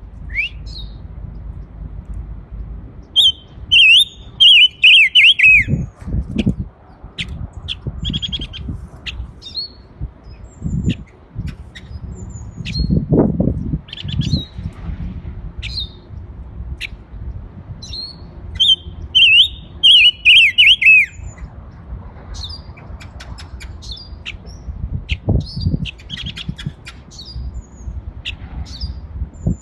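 A small caged songbird singing in two loud bursts of rapid, machine-gun-like notes, the first a few seconds in and the second about two-thirds through, with scattered single chirps in between. Low rumbling noise comes in around the middle.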